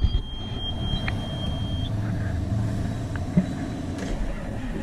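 A steady high-pitched cab warning tone for about two seconds as the key is turned. Then the starter cranks a cold John Deere 7630 tractor's diesel engine, warmed only by its plugged-in block heater.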